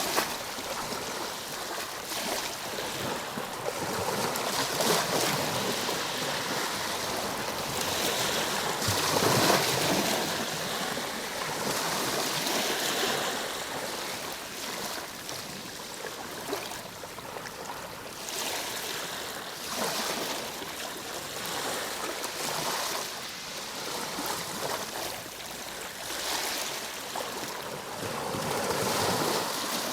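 Ocean waves washing in, a continuous hiss of surf that rises and falls in uneven swells, loudest about nine to ten seconds in.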